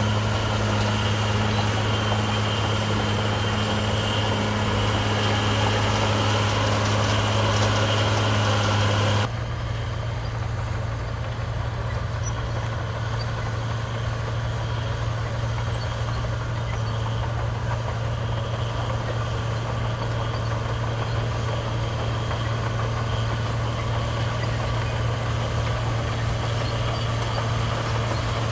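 Heavy diesel engines of construction machinery running steadily with a low, even hum. About nine seconds in, the sound switches abruptly to another steady engine hum that is a little higher and quieter.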